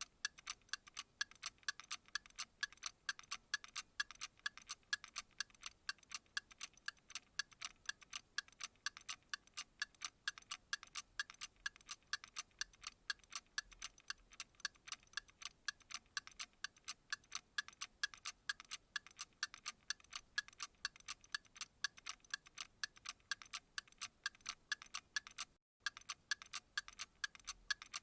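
Clock ticking: quick, even, light ticks in a steady rhythm, with one momentary break near the end.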